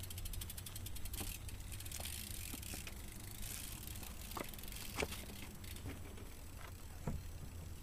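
BMX bike being ridden slowly on concrete: the rear hub ratchets in a fast run of clicks in the first second, then come tyre scuffs and a few sharp knocks of the bike and its pegs.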